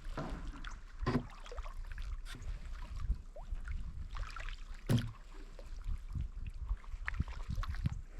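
Kayak paddle strokes dipping and splashing in the water, irregular, the strongest about five seconds in.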